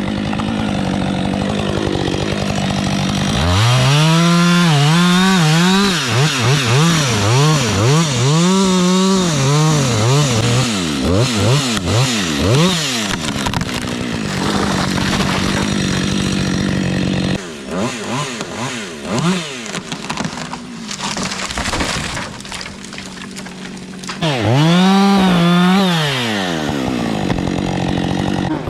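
Chainsaw idling, then revved up and cutting wood in repeated bursts, the engine pitch climbing and dropping with each pass, settling back to idle between cuts and revving again near the end.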